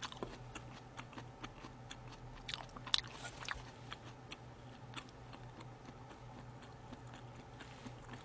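Close-miked chewing of a mouthful of sushi: soft, irregular wet mouth clicks, thickest in the first few seconds and thinning out after about five seconds.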